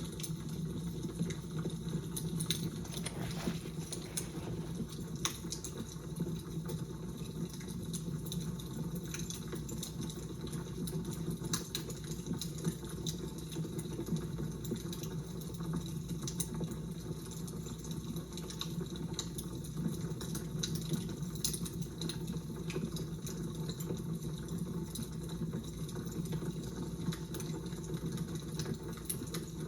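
Fire crackling: a steady low rush with frequent small, sharp pops and snaps scattered through it.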